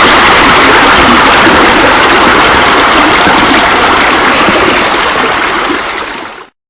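Steady rush of falling water, like a rock waterfall spilling into a pool. It fades over the last second and cuts off near the end.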